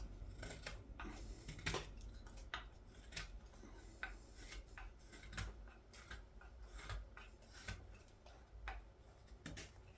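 Hand carving blade shaving the back of a green wild cherry scoop: a steady run of short, irregular cuts.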